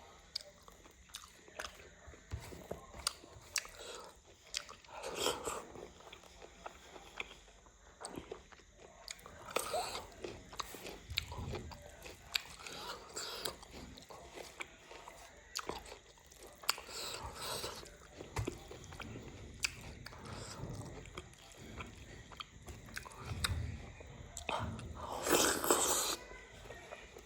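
A person chewing and biting food close to the microphone: irregular mouth clicks and crunches, with a few louder bites spread through.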